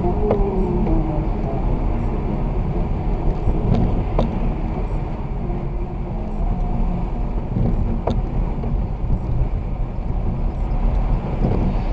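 A car being driven, heard from inside: steady engine and road rumble, with a few faint clicks.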